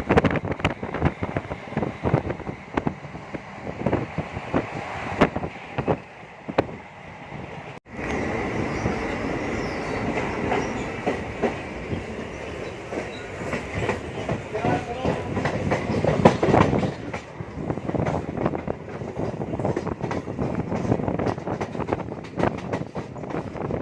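MEMU electric train running on the track, its wheels clattering over rail joints in an irregular run of clicks, with a brief break about eight seconds in.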